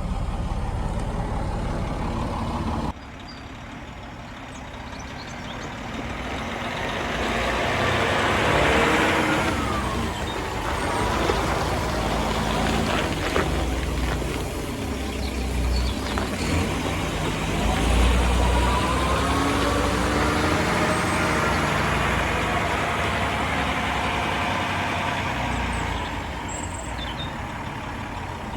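Cat 730C articulated dump truck running: a steady engine hum, then after an abrupt cut about three seconds in, louder engine and drivetrain sound whose pitch falls and later rises again.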